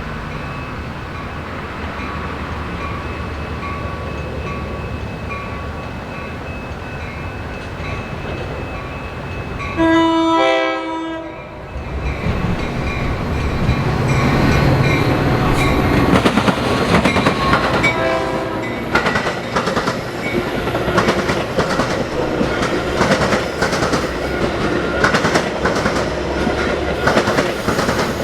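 A train approaching and passing: a steady diesel locomotive rumble, then a loud chord of the train horn about ten seconds in, lasting a second and a half, and a shorter, fainter horn blast around eighteen seconds. After the first blast the wheels clatter over the rail joints as the train rolls by.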